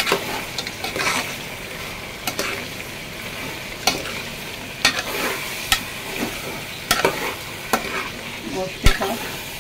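Mutton pieces, potatoes and peas frying in oil in a metal pot with a steady sizzle, while a spoon stirs them, scraping and knocking against the pot about once a second. This is the bhuna stage of the meat and masala.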